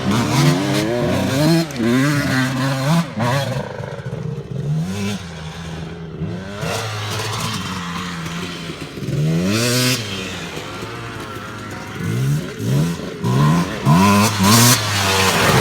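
Dirt bike engine revving up and down over and over as it is ridden, its pitch climbing and dropping with the throttle and gear changes. It is louder at the start and again near the end, with a quieter stretch in the middle.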